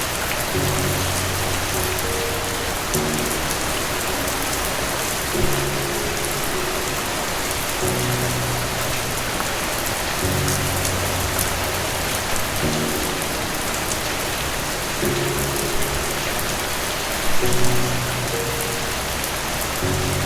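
Steady rain falling on a surface. Underneath it, soft low musical chords change every two to three seconds.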